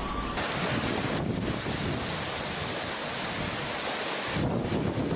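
Loud rushing noise of torrential floodwater, with wind buffeting the microphone; the sound changes abruptly about half a second in and again near the end.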